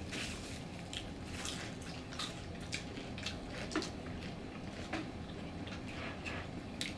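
Close-up chewing and wet mouth sounds of people eating fried chicken and fries: irregular smacks and small clicks, several a second.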